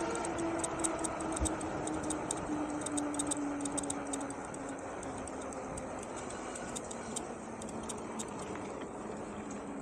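750 W rear hub motor of an Engwe Engine Pro e-bike whining with a steady tone that slowly falls in pitch as the bike slows, with rapid light ticking throughout.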